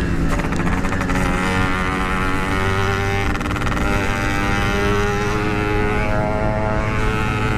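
Yamaha RX-King's two-stroke single-cylinder engine running under throttle on the move, its pitch rising and falling.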